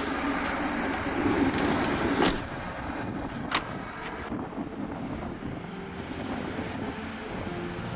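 Vehicle running: a steady rumble with a few sharp clicks in the first half. The sound changes about four seconds in, and faint music starts near the end.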